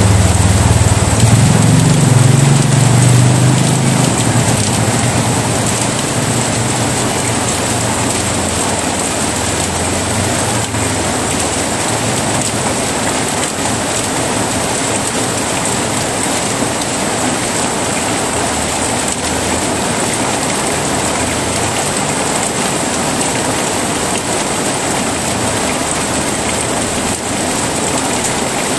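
Heavy rain falling steadily in a dense, even hiss. A low rumble of thunder opens it and fades away over the first few seconds.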